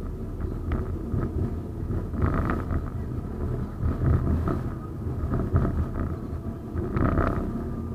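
71-931M "Vityaz-M" tram running along the track: a low, steady rumble of wheels on rails with a thin steady whine, and scattered short clacks and knocks throughout.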